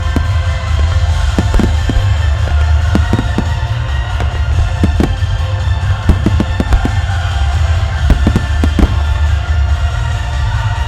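Starmine fireworks barrage: aerial shells bursting in quick, irregular succession, sharp bangs over a continuous deep rumble. Orchestral music plays along with the show.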